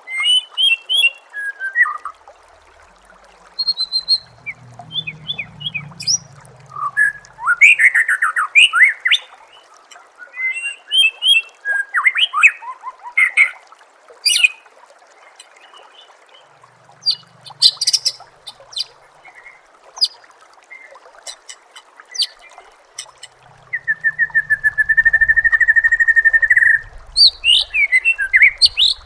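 White-rumped shama song: a fast, varied string of loud whistles, chirps and sliding notes, with a held buzzy trill a little past the middle. A soft trickle of running water goes on under it.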